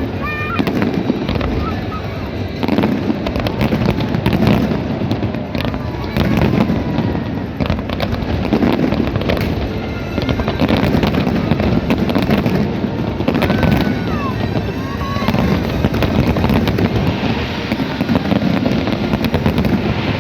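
A large fireworks display: a continuous dense volley of bangs and crackles, with a few short whistles.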